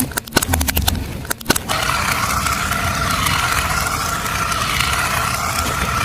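A car tyre rolling over and crushing something brittle: a quick run of cracks and snaps in the first second and a half, then steady rolling car noise with a held whine.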